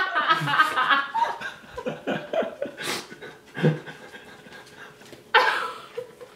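People laughing and chuckling in short voiced bursts, with a brief louder outburst about five seconds in.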